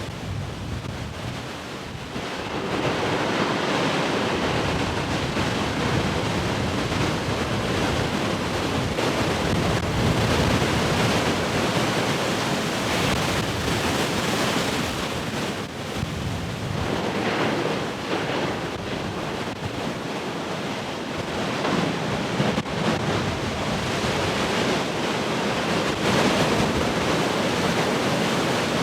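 Heavy ocean surf: large waves breaking and washing in a continuous roar that swells and eases every few seconds, with wind buffeting the microphone.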